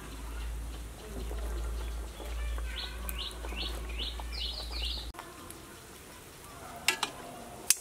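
A bird singing a quick run of about eight high, sweeping notes that speed up, starting about three seconds in, over a low rumble that stops at about five seconds. Near the end come a few sharp clicks or knocks.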